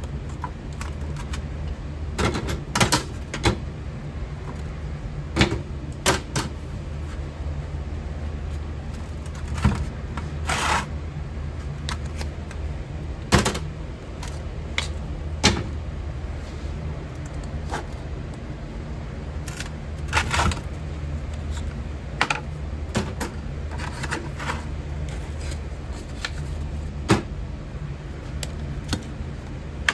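Steady low rumble of a metal-melting furnace running, with scattered sharp clicks and knocks at irregular intervals.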